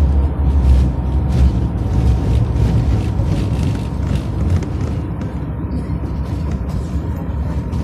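Tatra T3SU tram running along the track: a steady low rumble of wheels and running gear with a thin steady whine above it. The rumble eases off somewhat in the second half.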